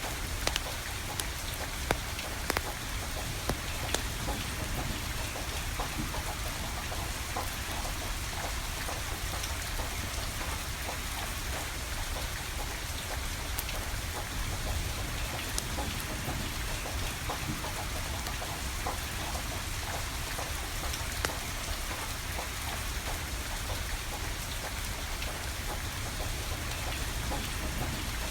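Steady rain falling, with a wood fire crackling: sharp pops and ticks scattered irregularly over the hiss of the rain, a few louder ones in the first few seconds.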